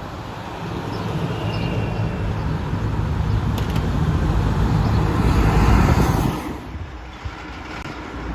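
Heavy truck's diesel engine running as it drives past, growing louder to a peak about six seconds in, then falling away suddenly.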